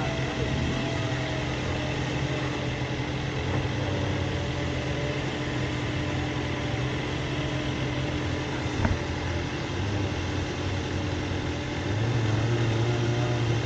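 Off-road 4x4's engine idling steadily, with a single sharp knock about nine seconds in and the engine growing louder near the end.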